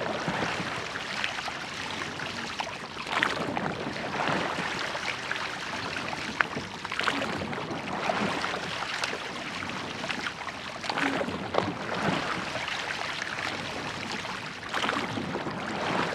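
Water splashing and rushing as a church boat is rowed, the wash swelling with each stroke about every four seconds.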